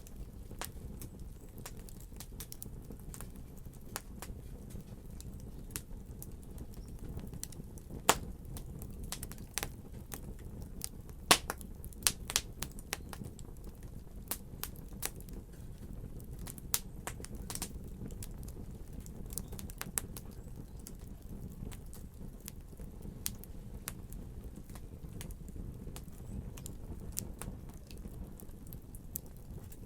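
Wood fire crackling, with a steady low rumble and irregular sharp pops, a few of them much louder than the rest.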